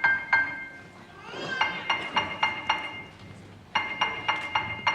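Bright struck notes on a tuned metal percussion instrument, played in quick runs of about four notes a second, with an upward glissando about a second and a half in.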